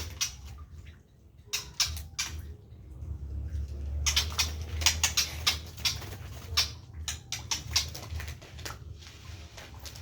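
Irregular scratching and scraping with sharp clicks, busiest in the middle, over a low steady hum.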